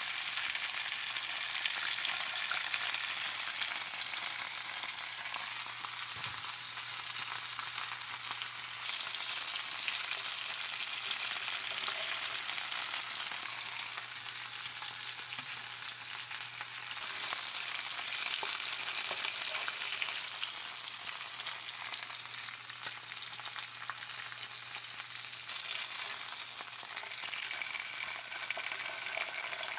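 Chicken thighs frying in hot oil in a pan, a steady sizzle that gets louder at a few points.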